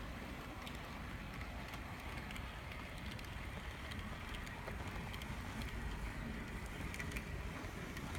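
Brass HOn3 model steam locomotive running along model railway track: a steady rumble of wheels and gearing with scattered light clicks.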